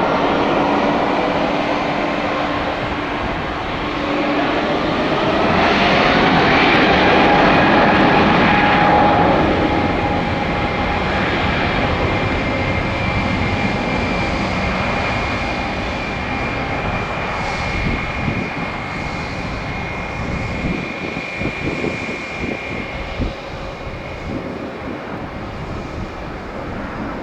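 Airbus A320-200 jet engines at takeoff power. The roar swells, with a whine rising in pitch, and is loudest about six to nine seconds in, then slowly fades as the airliner climbs away.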